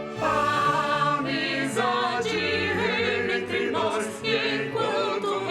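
A group of voices singing a song together over musical accompaniment. The voices come in just after the start, holding long notes with vibrato.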